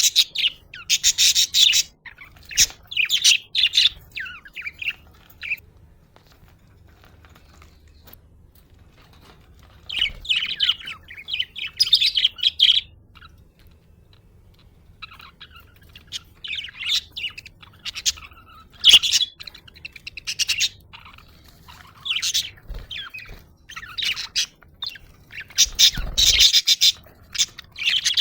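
Budgerigars chirping in bursts of quick, high notes, with lulls of a few seconds in between.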